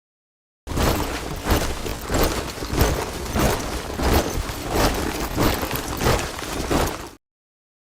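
A squad of soldiers' boots marching in step: a regular tramp of footfalls about every two-thirds of a second. It starts abruptly a little way in and cuts off suddenly near the end.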